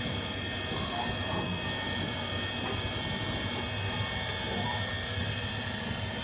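Machinery running steadily with a high-pitched whine made of several held tones over a rumbling noise.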